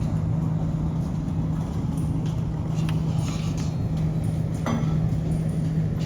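Steady low vehicle hum holding one droning tone, with a few faint clicks and clinks around the middle.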